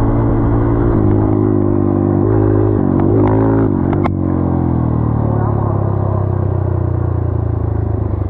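Single-cylinder dirt bike engine running hard under the rider, its pitch stepping up and down for about four seconds. A sharp knock comes just after that, then the engine pitch falls steadily as the bike slows.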